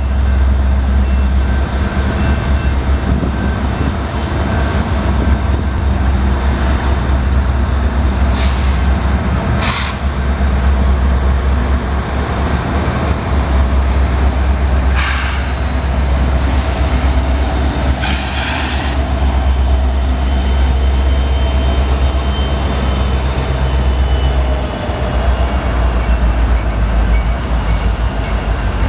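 Slow Union Pacific freight train running past with a steady, deep diesel rumble and rolling cars. Several brief hisses come in the middle, and a faint high squeal slowly drops in pitch near the end.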